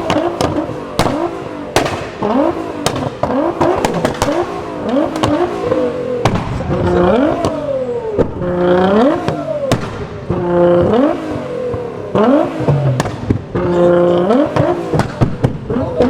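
Modified car engine blipped again and again, each rev rising sharply in pitch, with frequent sharp exhaust pops and bangs between the revs.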